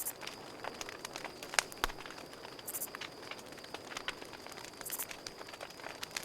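Campfire crackling, with irregular sharp pops and snaps of burning wood, over a steady high-pitched cricket trill. Two brief high hissing buzzes come about a third and three-quarters of the way through.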